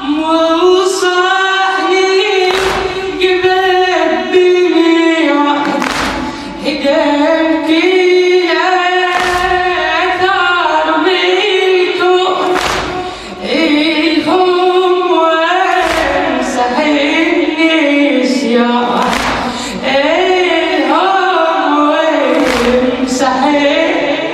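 Men's voices chanting a Shia latmiyya lament together in a melodic, unaccompanied chorus, over heavy rhythmic thumps about every 1.7 seconds, every other one stronger, the beat of chest-striking mourners.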